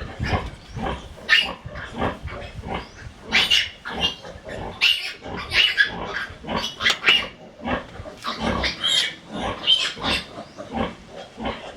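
Pigs grunting and squealing, a dense run of short, harsh calls one after another.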